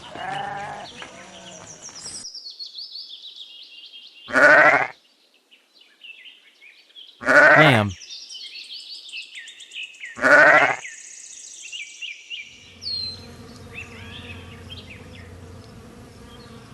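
Sheep and a lamb bleating: loud, wavering bleats a few seconds apart, with small birds chirping high in the background.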